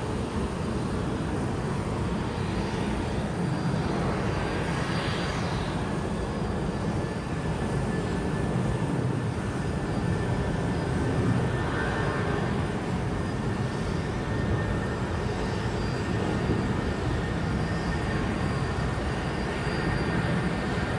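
Jet airliner engines: a steady, dense rumble with a faint thin whine running above it.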